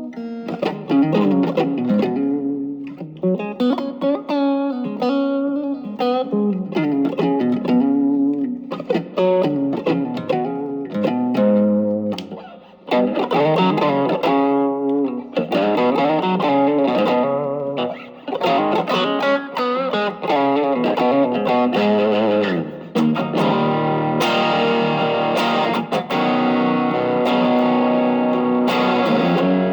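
Electric guitar played through an Ibanez TS808 Tube Screamer overdrive set as a boost, lightly driven. Lead lines with string bends and vibrato give way to ringing, sustained chords about four-fifths of the way through.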